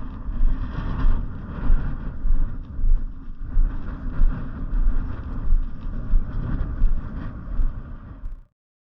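Wind buffeting the camera microphone: a heavy low rumble that swells and dips about every two-thirds of a second, cutting off suddenly near the end.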